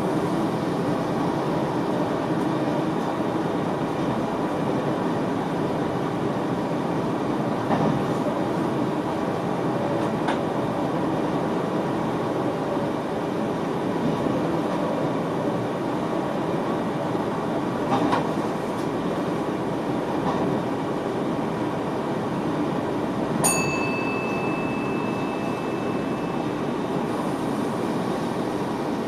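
Cab of a VIRM double-deck electric train running along the track: steady rolling and running noise, with a few short knocks. About three quarters of the way through, a click is followed by a steady high tone for about three seconds.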